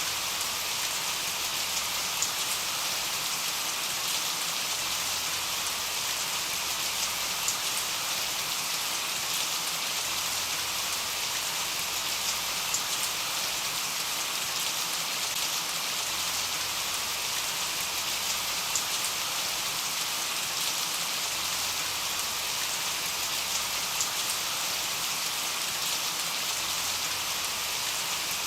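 Steady rain: a dense, even hiss of falling rain with scattered sharper drop ticks.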